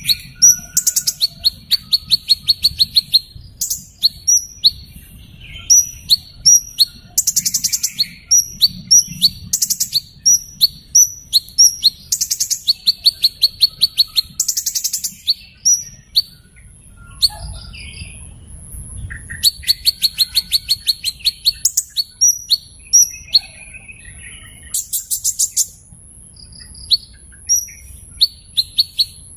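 Small bird calling: many sharp, high chirps mixed with rapid, buzzy trills lasting a second or two each, over a faint low rumble. A thin, steady, very high tone joins about halfway through.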